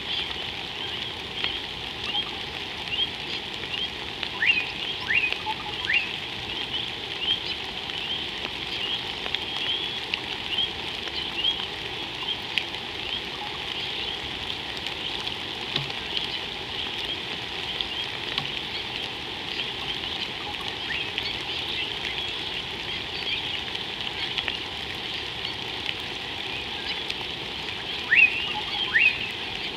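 Steady rain hissing on the water, with a continuous chorus of short high chirps over it. A few sharp, downward-sweeping calls stand out about five seconds in and again near the end.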